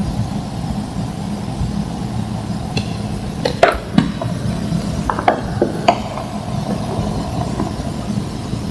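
Homemade green-dyed gym chalk slabs cracking and crumbling: a handful of sharp crunches and snaps, most of them between about three and six seconds in, over a steady low hum.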